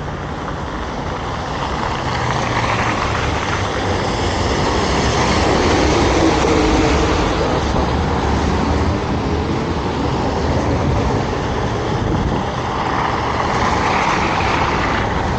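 Road traffic: motor vehicles passing close by on a city street, the noise rising to a peak about halfway through and swelling again near the end.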